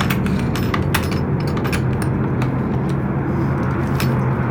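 A vehicle engine idling steadily with a low hum, with scattered light clicks as the tie-down strap's hook and hardware are handled.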